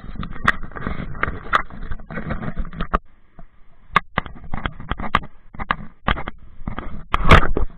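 Wind buffeting and rumble on the microphone of a moving motorcycle, with irregular crackling knocks; it drops off briefly about three seconds in and is loudest near the end.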